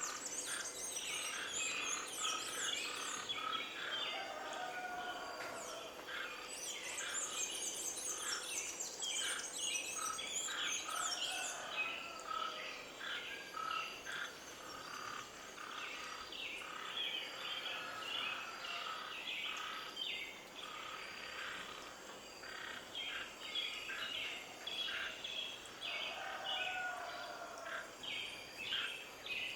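Several birds singing and chirping together in a dense, continuous chorus, with high rapid trills at the start and again about a third of the way in.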